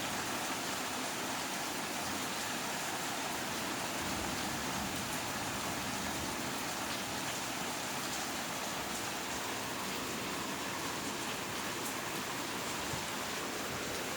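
Steady rain falling during a thunderstorm, an even hiss of rain with no thunder.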